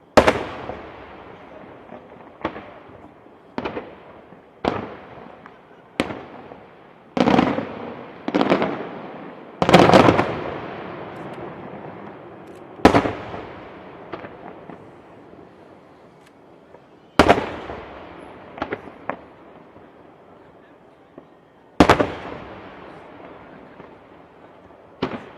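Fireworks bursting: a dozen or so sharp bangs at irregular intervals, each trailing off in a long echo, with the loudest cluster about ten seconds in.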